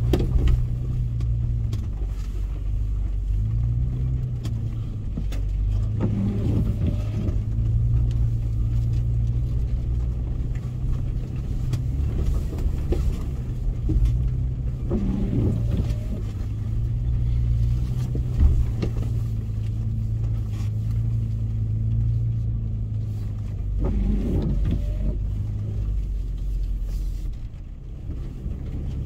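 Toyota FJ Cruiser's 4.0-litre V6 engine running at low revs while driving off-road, its note rising and falling as the throttle changes. A few brief knocks and rattles sound over it.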